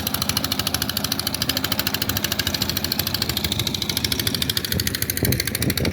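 Boat engine running steadily with a rapid, even pulse.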